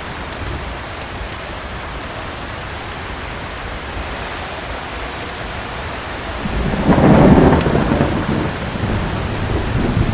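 Steady heavy rain, with a clap of thunder breaking in about six and a half seconds in and rolling on as a rumble. Faint crackles from a fireplace run underneath.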